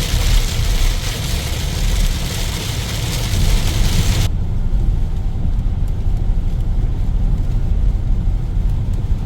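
Road noise inside a vehicle's cabin on a wet highway: a steady low rumble from Achilles Desert Hawk HT3 tyres under a bright hiss of rain and water spray. About four seconds in, the hiss cuts off abruptly, leaving the low rumble.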